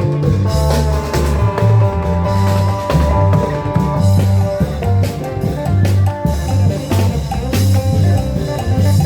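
Isan klong yao (long-drum) band playing lively procession music: drums and percussion with a pitched melody over a heavy, shifting bass line.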